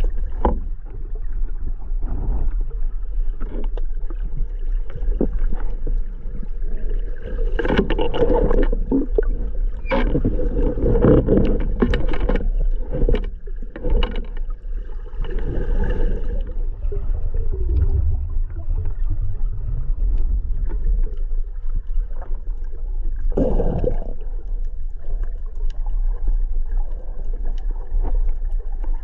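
Underwater sound: a steady low rumble with repeated bursts of bubbling and sharp clicks.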